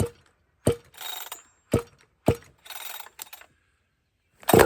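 A ported Husqvarna chainsaw on full choke being pull-started: several sharp yanks of the starter cord, some followed by a short whir of the engine turning over. Near the end a louder burst as the engine fires briefly on choke.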